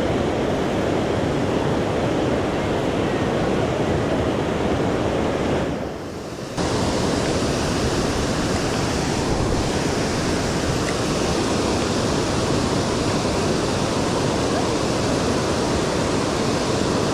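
Steady rush of water spilling over a creek dam, mixed with rain and wind buffeting the microphone. The noise drops for under a second about six seconds in, then returns.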